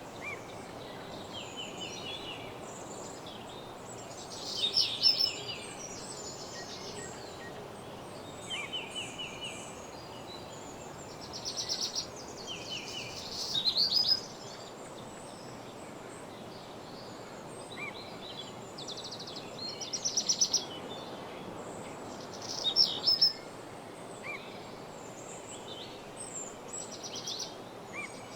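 Several songbirds singing, with short trilled and chirped phrases that come every few seconds over a steady background hiss.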